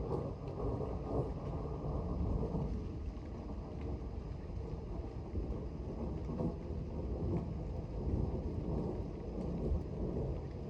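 Distant thunder rumbling low and continuously, with wind noise on the microphone as a thunderstorm approaches.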